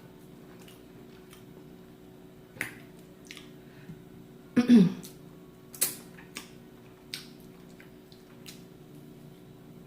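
A person eating with occasional sharp wet mouth clicks and smacks, and a brief "mm"-like voiced sound about five seconds in.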